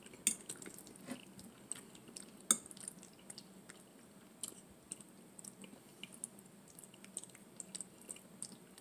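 Chewing spaghetti with bow-tie pasta, with scattered short clicks and taps of a metal fork against a glass dish.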